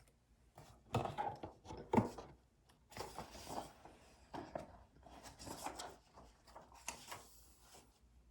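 Things being handled at a study desk: two sharp knocks about one and two seconds in, then irregular rustling and shuffling that stops near the end.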